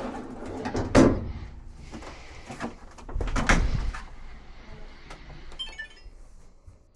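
Two heavy knocks, about one second in and about three and a half seconds in, with lighter clattering and clicks between and after.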